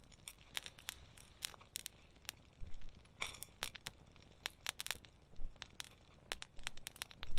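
Wood fire crackling: irregular sharp pops and snaps, some close together, over a quiet background.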